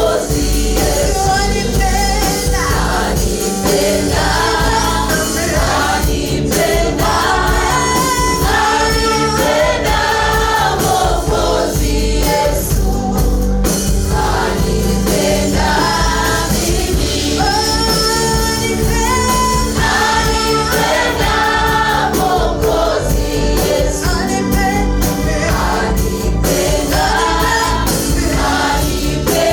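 A choir singing gospel praise music in parts over a steady band accompaniment with bass.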